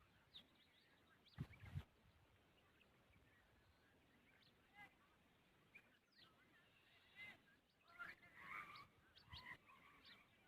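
Faint, scattered bird chirps over near silence, busiest near the end, with two soft thumps about a second and a half in.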